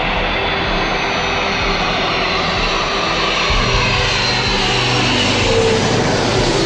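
Airplane engines: a loud, steady rush with whining tones that slide down in pitch.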